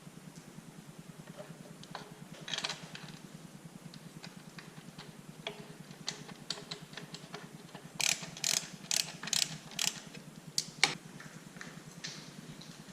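Hand-tool work on metal: scattered clicks, then a quick run of about six rasping ratchet strokes about eight seconds in and another click near eleven seconds, over a steady low hum.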